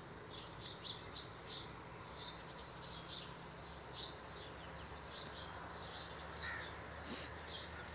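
Birds chirping in many short, high calls, a few each second, over a low steady hum.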